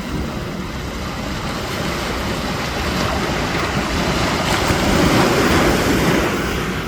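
Sea surf washing in, swelling as a wave breaks about five seconds in and then easing.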